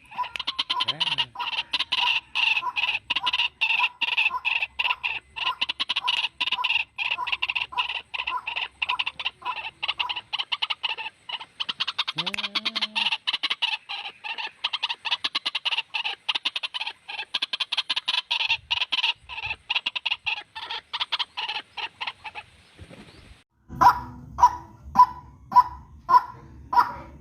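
White-breasted waterhen calls from a recorded lure track: a long run of fast repeated notes, then, after a short break near the end, a slower series of loud, evenly spaced calls about two a second.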